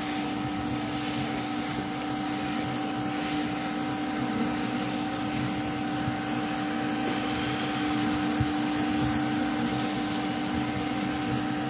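Bee vacuum running with a steady drone, a constant hum over airy rushing noise.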